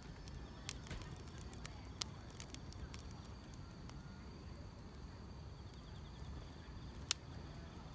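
Wood fire crackling, with a low steady rumble and sharp pops now and then, the loudest about seven seconds in. Faint grass insects chirp steadily in the background.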